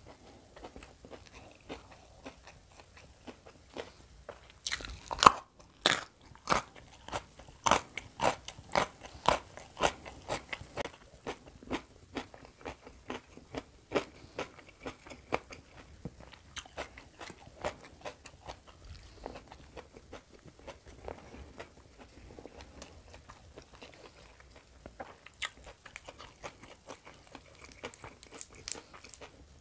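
Close-up crunching and chewing of raw lalapan vegetables, including raw beans dipped in sambal. Crisp bites are thickest from about five to twelve seconds in, then turn to quieter chewing, with another run of crunches near the end.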